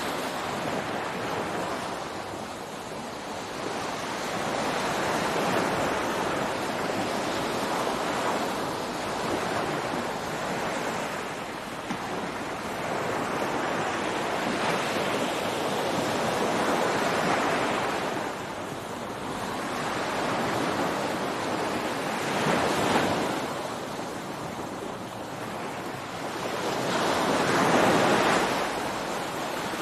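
Ocean surf breaking on a beach: a steady wash of waves that swells and eases every several seconds, with the loudest break near the end.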